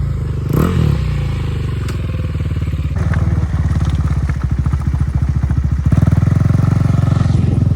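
Motorcycle engine running steadily with a fast pulsing beat, getting a little louder about three seconds in and again about six seconds in.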